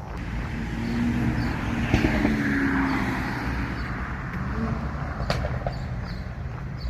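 A car passing by: its noise swells to a peak and then fades. A couple of sharp clicks sound over it, one about two seconds in and one near the end.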